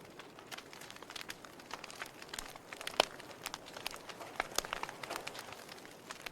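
Wood fire burning in a fireplace: irregular crackles and pops over a soft steady hiss, with one sharper pop about three seconds in.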